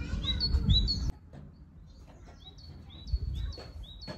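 A small songbird calling over and over, short high chirps about three a second. A low rumble underneath cuts off about a second in.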